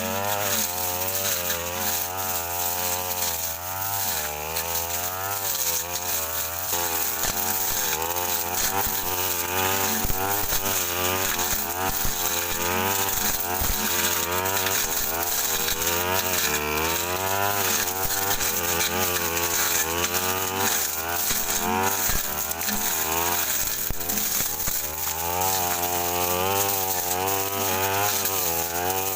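Brush cutter engine running under load, its pitch rising and falling as the throttle is worked and the blade bites into thick brush. Scattered knocks from the blade striking stems, mostly around the middle.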